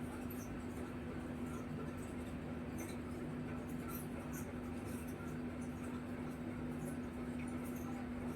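Steady low electrical hum with one constant tone and a faint hiss, with faint scattered ticks.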